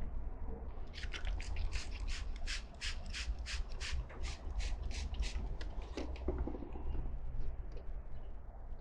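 Hand-pump spray bottle being squeezed rapidly, a quick run of about sixteen short hissing sprays at three or four a second, followed by a few fainter, scattered ones near the end.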